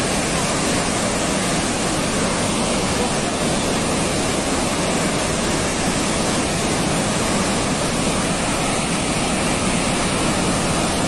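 Raging floodwater carrying a landslide rushing past: a loud, steady, unbroken rush of churning water.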